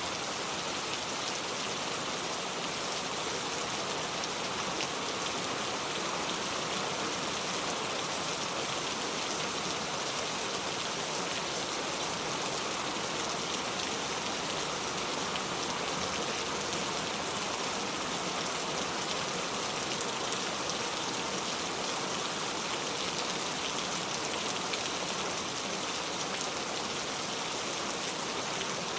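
Steady rainfall: an even hiss of rain with many fine drop patters on surfaces, holding at a constant level.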